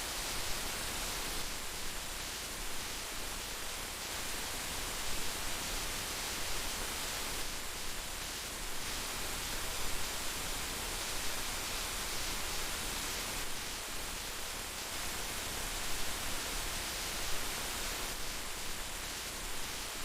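Heavy rain falling steadily, a dense even hiss with small irregular swells.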